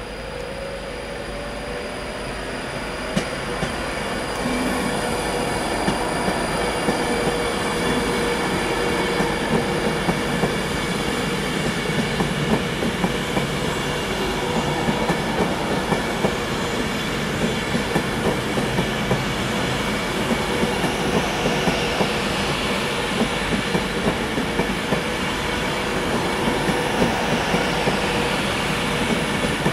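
Virgin Trains passenger train passing through at speed. It grows louder over the first few seconds as it comes close, then holds a steady rush of wheels on rails, with a regular clickety-clack as the long rake of coaches goes by.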